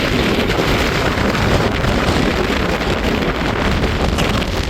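Strong storm wind buffeting the microphone: a loud, continuous rushing roar with a heavy low rumble.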